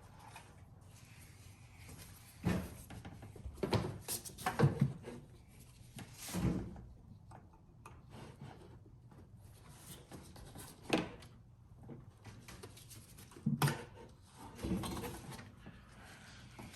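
Scattered clicks and knocks of hands working a mass air flow sensor loose from a BMW X5's air intake, several of them grouped together about four to five seconds in.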